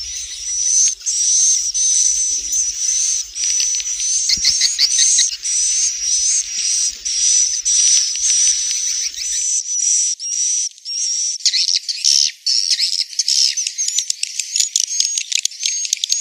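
Swiftlets calling: rapid, high-pitched chirps and twitters repeating without a break, a swiftlet lure recording of the kind played to draw the birds to nest. About nine seconds in, the recording changes to a denser, faster twittering.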